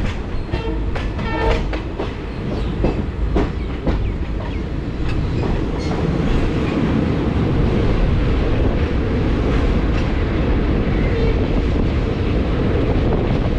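Train running on the rails: wheels clatter over the rail joints in the first few seconds, then settle into a steady, deep rumble.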